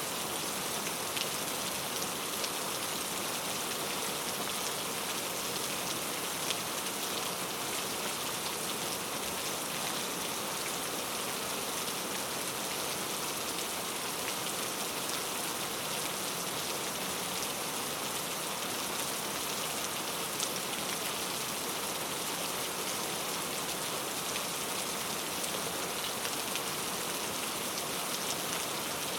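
Steady, even rainfall with scattered close drop ticks.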